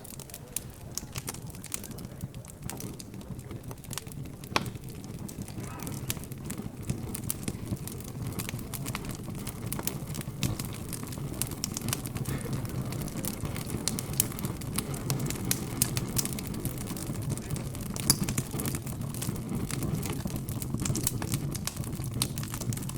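Wood fire crackling with frequent sharp pops, the loudest about 18 seconds in, over a low murmur of background chatter.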